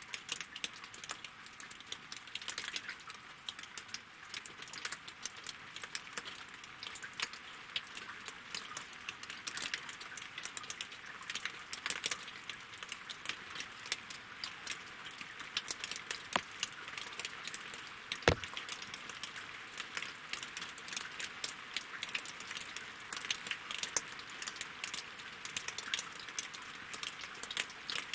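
Winter rain falling on lake water and wooden logs: a dense, irregular patter of individual drop ticks. One sharper, louder drop hit comes about two-thirds of the way through.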